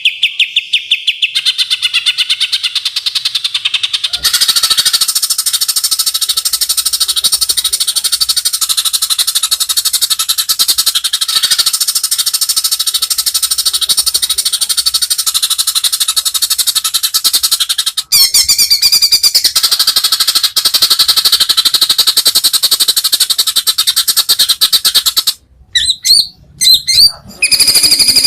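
Male white-rumped shama (murai batu) singing a loud, fast rattling song of rapidly repeated high notes, broken by a short pause about two-thirds of the way through and a few brief gaps near the end.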